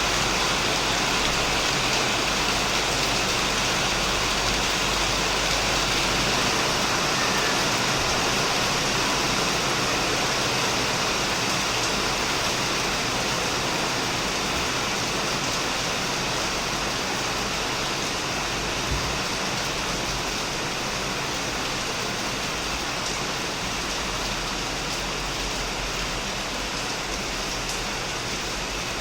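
Heavy rain falling steadily on a shed and surrounding plants: a dense, even hiss of countless drops that eases slightly in the second half.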